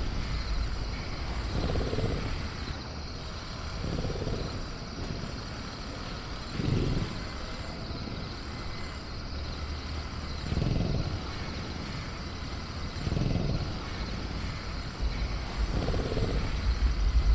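Night-time creature ambience: a steady low rumble under faint crickets, with about six soft, low sounds from the caged velociraptor every two to four seconds.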